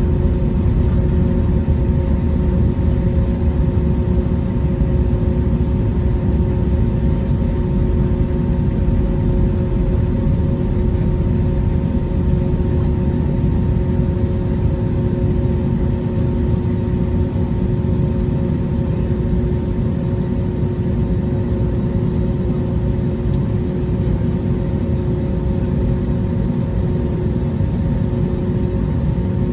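Airbus A321neo jet engines running steadily: a loud, even low rumble with a few constant hums over it, with no rise or fall in pitch.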